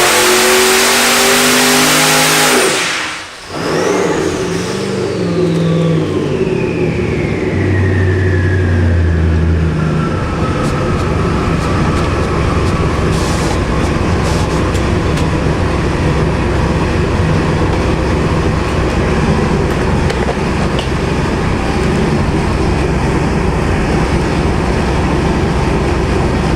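Twin-turbo 427 small-block Chevy V8 on an engine dyno at full throttle at the top of a pull, cut off sharply about three seconds in. The turbochargers' whistle then falls slowly in pitch over several seconds as they spool down, while the engine drops to a steady idle.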